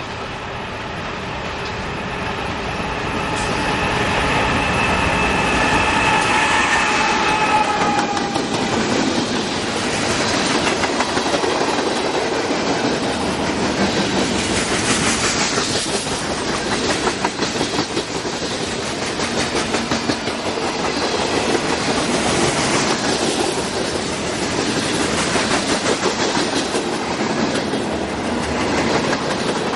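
A diesel locomotive's multi-chime horn sounds one long blast a few seconds in, its pitch dropping slightly as the locomotive passes. Then the freight cars roll by with a steady clickety-clack of wheels over the rail joints.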